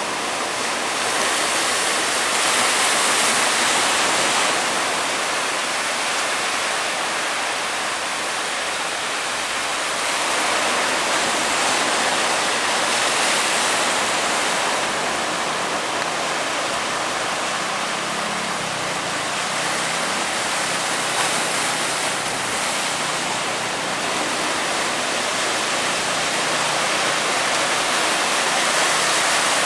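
Big waves breaking continuously at a river mouth: a dense wash of surf noise that swells and eases every few seconds. A faint low hum sits under it in the second half.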